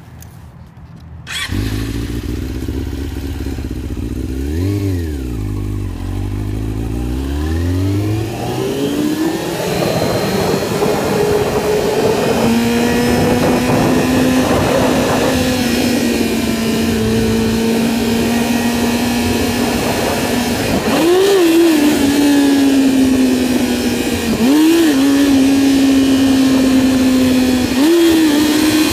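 Yamaha YZF-R6 inline-four sport-bike engine starting up about a second in, idling with one quick rev blip, then rising in pitch as the bike pulls away and holding steady under way. Near the end come three sharp bursts of throttle, attempts to lift the front wheel into a wheelie.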